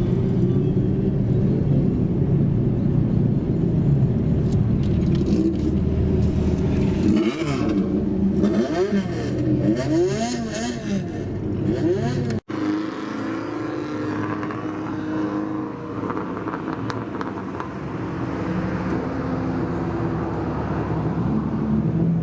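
Engines of customised old Japanese cars (kaido racers) running. About a third of the way in come several quick throttle blips that rise and fall in pitch. After an abrupt cut, a steadier engine note follows.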